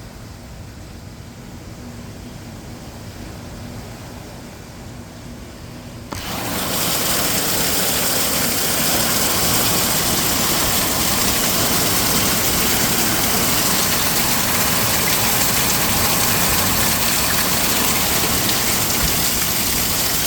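Heavy monsoon rain and water pouring off a house roof, a steady rushing noise. It is muffled at first, then suddenly becomes much louder and fuller about six seconds in and stays that way.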